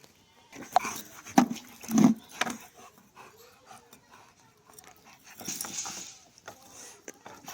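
A dog makes four short, sharp sounds in quick succession between about one and two and a half seconds in. A breathy, hissing noise follows near six seconds.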